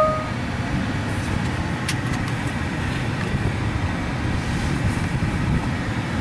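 Ryko Radius HT touchless car wash spraying water onto the car, heard from inside the cabin as a steady rush with a deep rumble. A short beep sounds right at the start.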